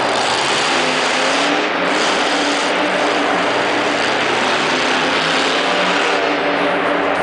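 Monster truck engine running loud and revving, its pitch rising and falling over a continuous dense roar.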